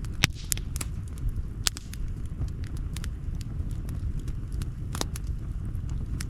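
Outdoor campfire crackling: sharp, irregular pops and snaps from the burning wood over a steady low rumble, with the loudest pop a quarter of a second in.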